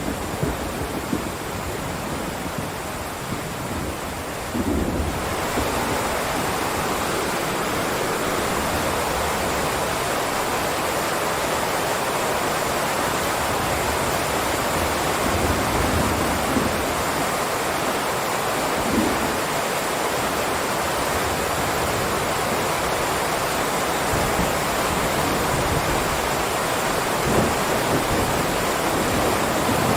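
Heavy rain downpour: a steady, dense hiss that gets louder and brighter about five seconds in, with low rumbles coming and going underneath.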